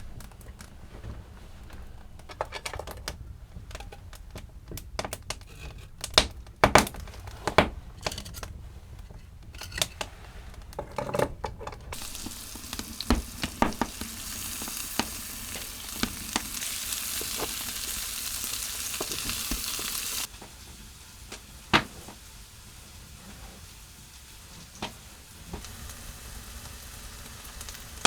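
Scattered clicks and knocks, then a sizzling hiss on a hot wood stove that grows for several seconds and cuts off suddenly, followed by a few more clicks.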